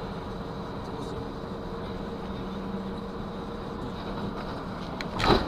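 Steady running and road noise of a moving car, heard from the dashcam, with a sudden loud, short noise near the end.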